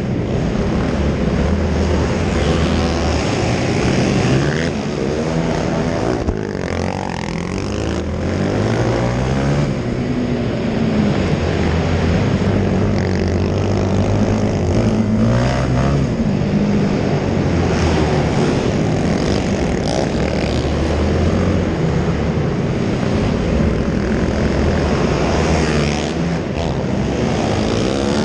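Several racing quad (ATV) engines revving up and down together, their pitches rising and falling as they accelerate and back off.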